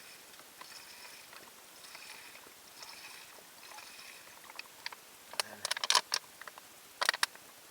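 Sharp metallic clicks and clatter from setting up and lighting a gas camping stove: a quick run of them about five and a half seconds in, and another short cluster about a second later.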